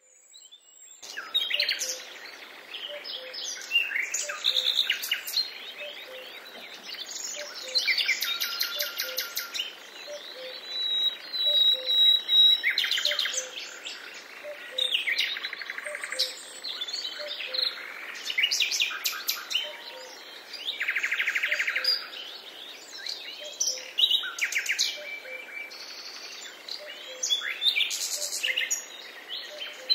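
Several songbirds singing and chirping at once, a dense mix of trills, whistles and fast repeated notes, fading in about a second in. Underneath, a faint low note repeats steadily.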